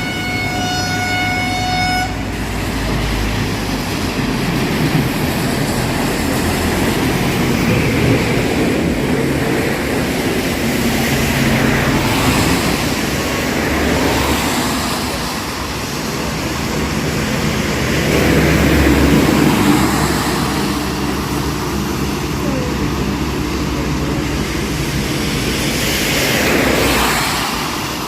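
Heavy rain and highway traffic: a vehicle horn holds one steady note and stops about two seconds in, then a continuous wash of rain and tyres on the wet road, swelling and fading as vehicles pass.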